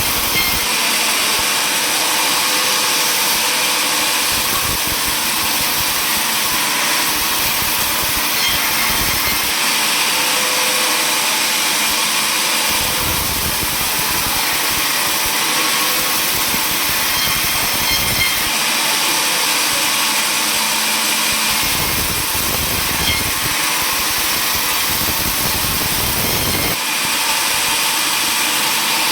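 Table saw running steadily, with two stretches of heavier, lower sound, one from about 13 to 18 seconds in and one from about 22 to 27 seconds in, as it cuts through wood.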